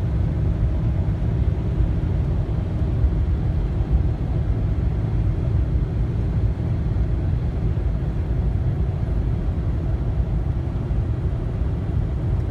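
Steady low road and engine rumble inside the cabin of a moving vehicle, even throughout with no changes.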